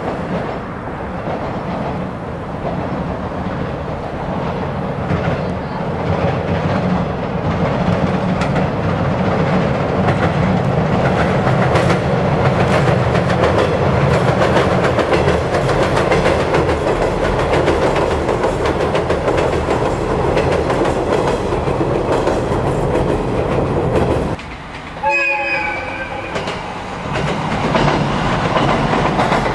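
JR 115 series electric train crossing a steel girder bridge: a steady rumble with the clatter of wheels over rail joints that grows louder as it nears and passes. About 25 seconds in the sound drops away briefly, and then a second train's rumble starts up on the bridge.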